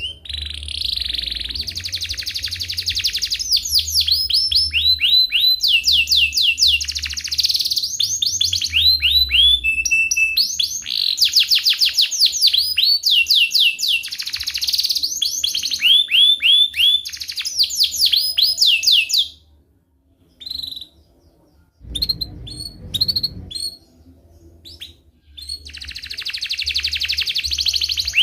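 Domestic canary singing in long, fast rolling trills and chirps. The song breaks off a little past the middle for a few short single chirps, then the rolling trills start again near the end.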